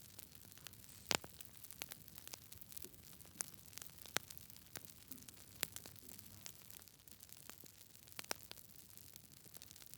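Wood fire burning in a fireplace: a low hiss with irregular sharp crackles and pops, the loudest pops about a second in and twice more around the middle.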